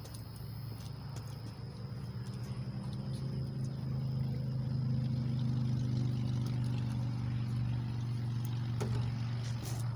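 A motor vehicle's engine running with a steady low hum, growing louder over the first few seconds and then holding, with a few faint ticks.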